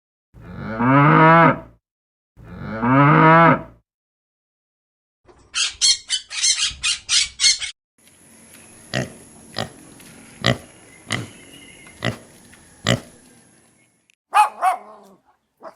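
A cow mooing twice, two loud calls of about a second and a half each that rise and fall in pitch. They are followed by a quick run of high chirps, then a steady hiss with a high whine broken by sharp clicks roughly once a second, and a short call near the end.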